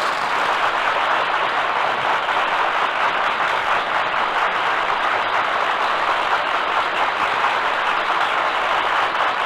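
Radio studio audience applauding steadily.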